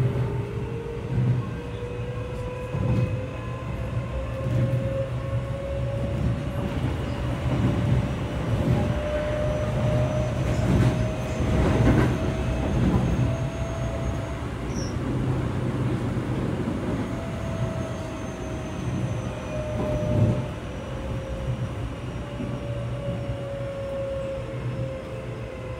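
Keio 8000-series electric train heard from inside the car while running: steady rumble of wheels on rail with scattered knocks over rail joints. The traction motor whine climbs in pitch as the train gathers speed for the first half, drops out for a few seconds, then returns falling in pitch as the train slows.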